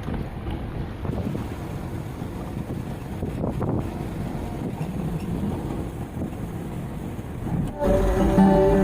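Steady low rumble with wind noise on the microphone. Guitar music comes in near the end.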